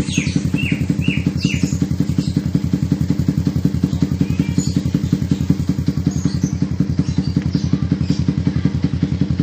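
Yamaha MX King 150's single-cylinder four-stroke engine idling steadily through an aftermarket exhaust, a quick, even low pulsing.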